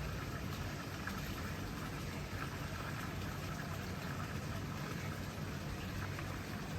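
Steady, even hiss of rain or water, with a low rumble underneath and no clear change.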